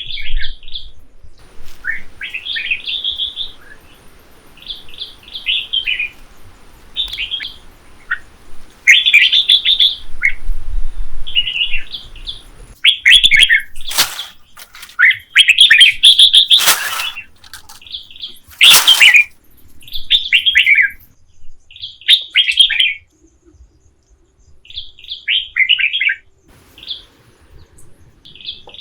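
Birds singing in forest, repeating short chirping phrases that fall in pitch, with a few louder, sharper calls in the middle.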